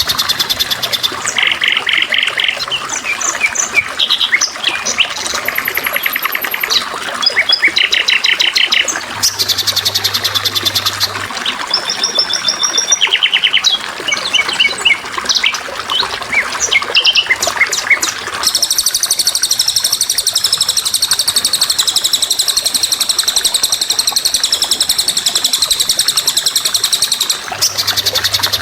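Songbirds chirping and trilling over a steady trickle of water, many short calls and rapid trills overlapping. Past the halfway mark one long unbroken high trill holds for about nine seconds before the short chirps return.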